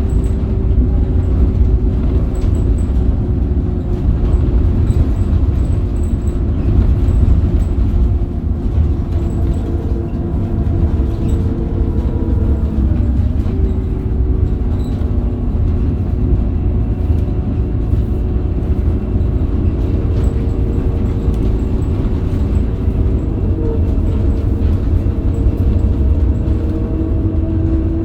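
Scania K270UB bus on the move, its Scania DC9 diesel engine and ZF Ecomat automatic drivetrain running with a heavy low rumble and a steady whine. The whine drifts slowly in pitch and shifts briefly about halfway through.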